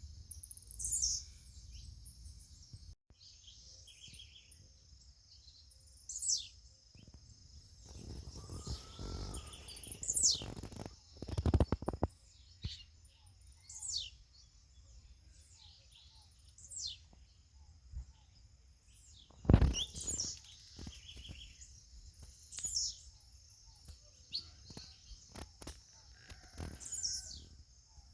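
Birds calling in short, high, falling whistled notes every couple of seconds over a steady high insect drone. Low rumbles come and go, and a single loud thump about two-thirds of the way in is the loudest sound.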